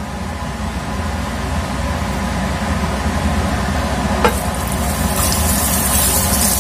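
Oil heating in a nonstick frying pan over a steady low hum. A little over four seconds in, sliced shallots and garlic go into the hot oil with a knock, and it starts sizzling as they are stirred with a wooden spatula.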